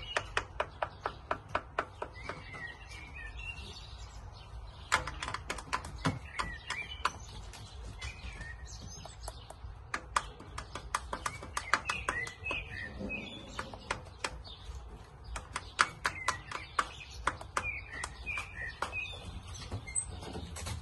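Small birds chirping, with runs of sharp clicks or taps several times a second throughout.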